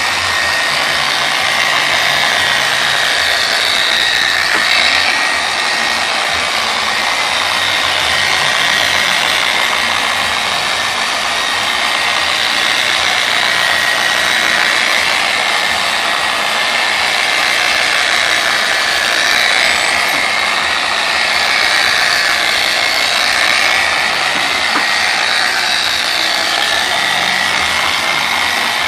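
Porter-Cable 7424 dual-action polisher running steadily on speed 3, a constant motor whine, its pad spreading paint sealant over a car windshield.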